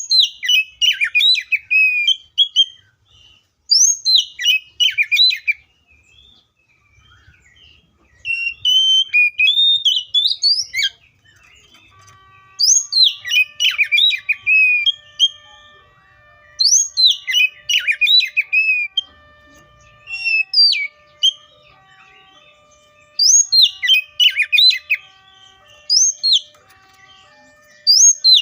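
Oriental magpie-robin singing: loud runs of rich, quickly gliding whistles and chatter, each about two seconds long, repeated every three to four seconds with short pauses between.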